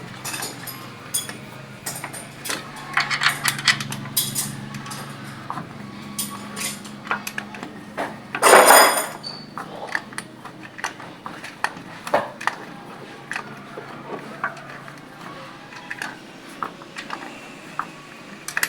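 Metal hand tools clicking and clinking on the valve gear of a Ford 5000 tractor engine, the engine not running, while the valve clearances are set. A louder half-second rush of noise comes about eight and a half seconds in.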